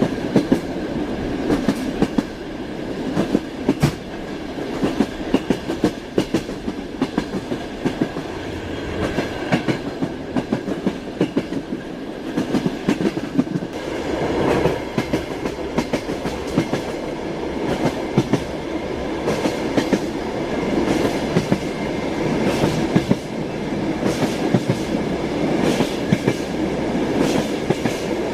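Moving train's wheels clacking over the rail joints, with frequent sharp clicks in clusters over a steady running rumble.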